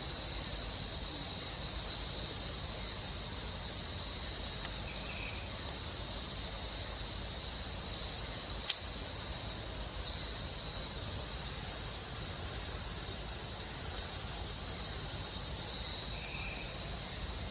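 Rainforest insects calling: a loud, shrill, steady whine, broken by a few brief gaps.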